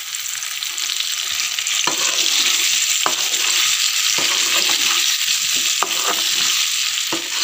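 Boiled amla (Indian gooseberries) sizzling in hot oil in a karahi as they are stirred, the spoon knocking against the pan about five times.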